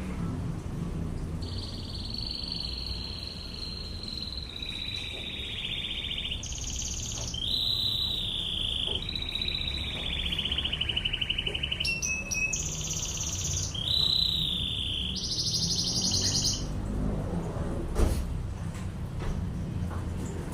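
Domestic canary singing a long string of rapid trills and rolls, phrase after phrase at changing pitches, in the fast machine-gun style ('ngebren'); the song stops about sixteen seconds in, leaving a low background rumble and one sharp click near the end.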